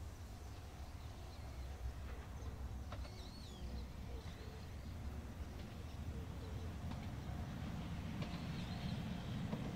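Electric commuter train of the Izuhakone Railway approaching along the track: a low rumble slowly growing louder, with a few bird chirps about three seconds in.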